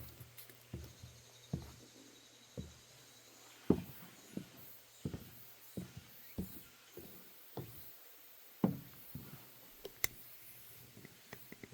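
Footsteps on a wooden boardwalk at an easy walking pace, a dull thud about every two-thirds of a second, with a sharp click about ten seconds in.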